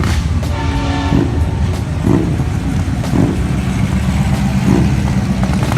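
Vehicle engines running as cars drive out past, with a steady low rumble throughout. A brief pitched tone sounds about half a second in, and a steadier engine note comes in about halfway through.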